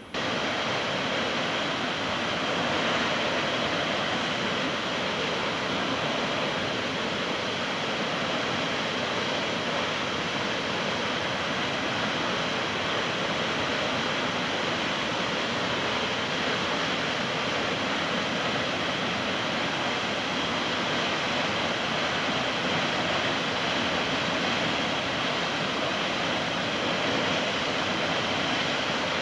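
Steady rush of heavily flowing water, even and unbroken, starting suddenly at the outset.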